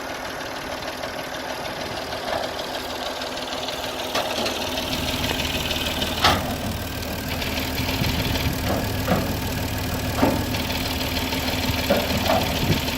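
John Deere tractor's diesel engine idling just after being started, getting stronger and deeper about four seconds in. A few short sharp clicks sound over it.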